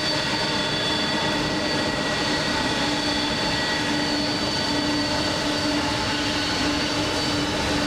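Jet airliner engines running at taxi power: a steady whine with several held tones over a constant rush of noise.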